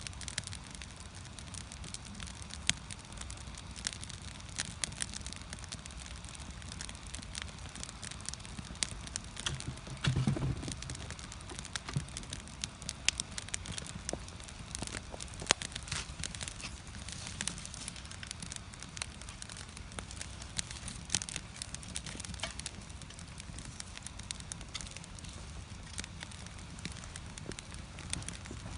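Split-wood fire burning in a traditional Korean agungi firebox, crackling with frequent irregular sharp pops over a low steady rumble. One brief, louder low thump about ten seconds in.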